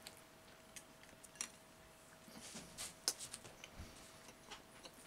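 A person chewing a mouthful of boiled young potato: faint, scattered wet mouth clicks and smacks, with a few louder ones around the middle.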